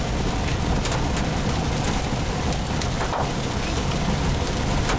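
Cab noise of a vehicle driven fast: a steady low rumble of road and wind noise, with scattered sharp ticks and knocks.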